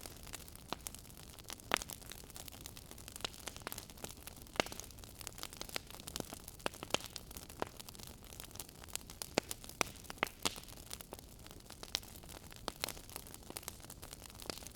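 Fire in a fireplace crackling: irregular sharp pops and snaps, some much louder than others, over a low steady hiss of burning.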